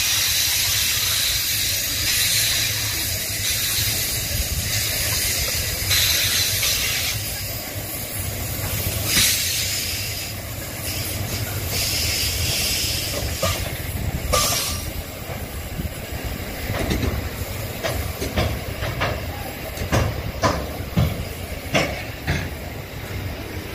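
A train running past with a steady rushing noise and low rumble, then a series of sharp clacks from its wheels over the rail joints in the last third.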